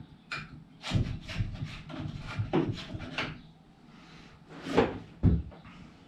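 Repeated knocks, clunks and scraping of metal motorcycle fork parts being handled and fitted, with one longer sliding scrape near the end.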